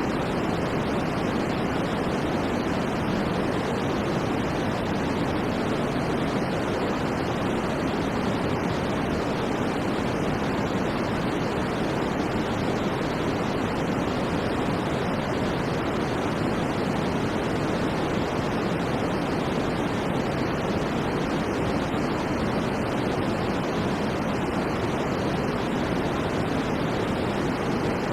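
Steady synthetic white noise: a constant, even rushing hiss that never swells or changes.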